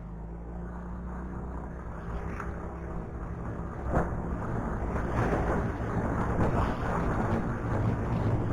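Motorcycle engine running, heard on an action camera, with the rush of wind on the microphone building and getting louder through the second half. One sharp knock about four seconds in.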